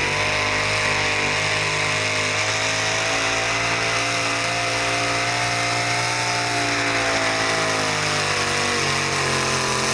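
Pulling vehicle's engine running flat out under load during a pull, a steady high-revving note whose pitch climbs a little at first and sags slightly near the end.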